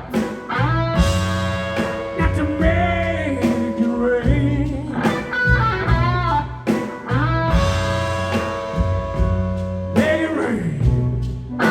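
Live blues-rock band playing an instrumental stretch, with a lead electric guitar holding and bending sustained notes over bass and drums.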